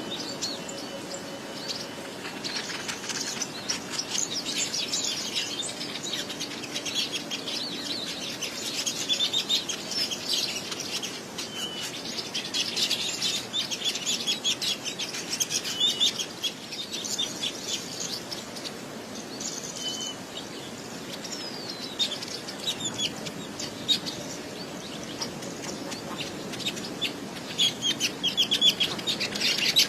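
A flock of small birds chirping and twittering, many rapid overlapping calls, growing louder near the end.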